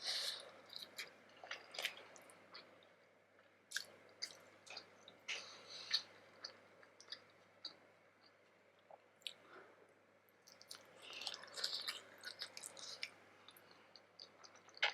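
Close-miked chewing of steamed vegetable momo dumplings: soft wet mouth smacks and small clicks in irregular clusters.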